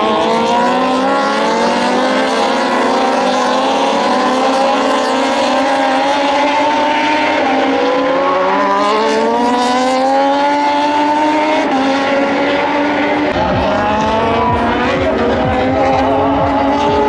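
Several Moto2 race bikes, with Triumph 765 cc three-cylinder engines, accelerating hard. Their overlapping engine notes climb through the gears and drop back briefly at each upshift. A lower, rougher rumble joins about two-thirds of the way in.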